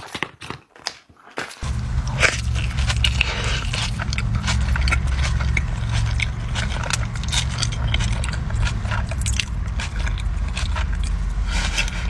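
Close-miked eating: crunchy bites and wet chewing of fast food, many sharp crackly clicks. About one and a half seconds in, a loud steady low hum sets in under the chewing.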